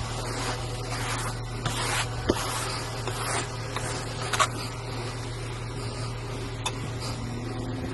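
Car driving on a snowy road: a steady low drone of engine and road noise, with several swishing hisses about one to four seconds in.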